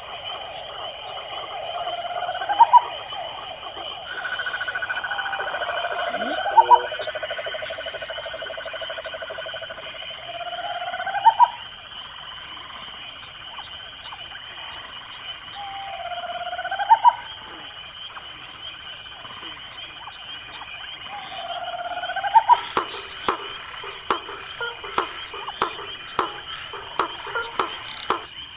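Night chorus of crickets, a steady high-pitched trill. Over it comes a short rising call about every four to five seconds, and a run of faint rapid clicks near the end.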